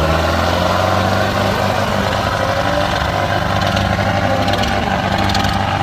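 Tractor diesel engine running steadily, a constant low drone.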